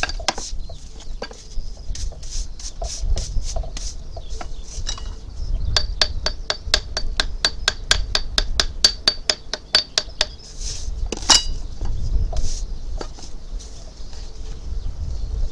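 Runs of rapid, sharp tapping, about four to five light taps a second, with short pauses between the runs.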